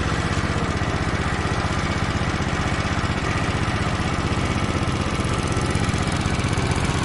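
Small engine running steadily at an even idle, with a fast, regular pulse.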